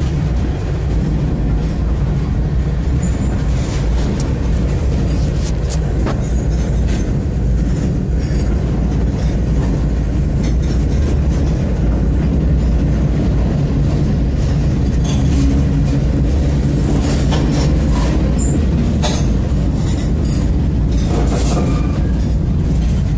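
Freight train rolling, heard from the end porch of a freight car: a steady low rumble of wheels on rail with scattered clanks and clicks, which come more often near the end.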